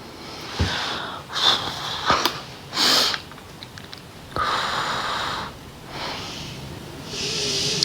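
A person's breath sounds close to the microphone: several short sniffs or puffs of air, then two longer breaths out.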